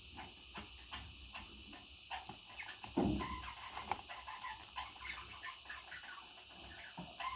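A parrot making short clucking and chattering calls among scattered clicks, with one louder thump about three seconds in.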